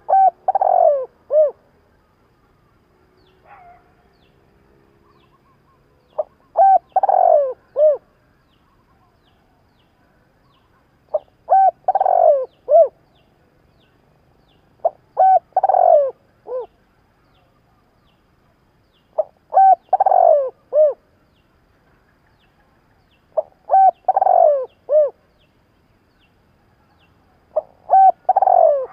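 Spotted dove cooing. It gives its song seven times, each a short phrase of a few coo notes, repeated about every four to five seconds.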